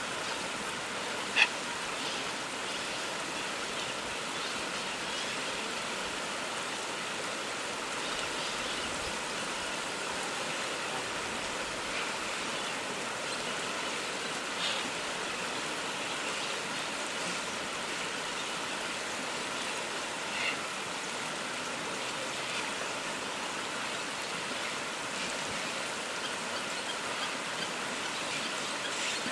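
A steady rushing hiss like running water, with a few short, sharp high calls from parrots standing out above it. The loudest call comes about a second and a half in, and weaker ones follow about fifteen and twenty seconds in.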